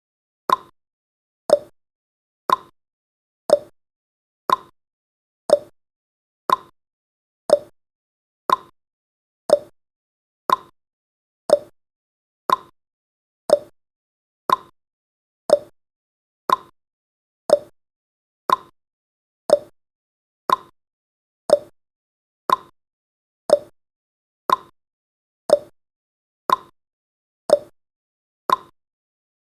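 Clock-style ticking sound effect of a countdown timer, one short sharp tick every second, evenly spaced and steady.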